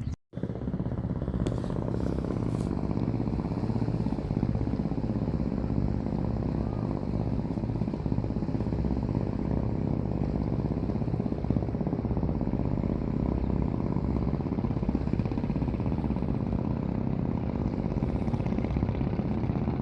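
An engine running steadily with a low, fast, even chugging, after a brief cut-out in the sound right at the start.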